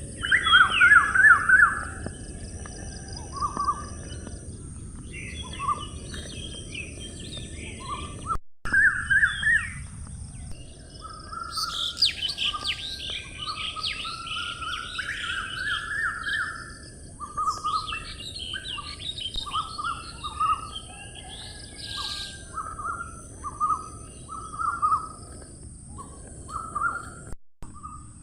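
Several birds chirping and calling: short calls repeated over and over, with busier bursts of higher twittering, over a steady low background rumble. The sound drops out briefly twice.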